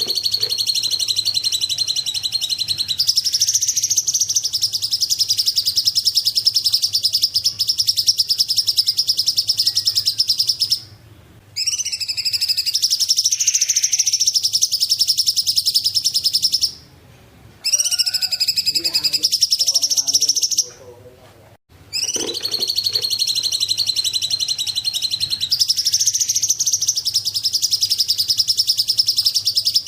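Cungkok songbird singing long, rapid, high-pitched trilling phrases, each running several seconds, with short breaks about 11, 17 and 21 seconds in.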